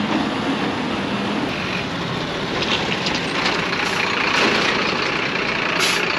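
A motor vehicle running close by: a loud, steady rushing noise.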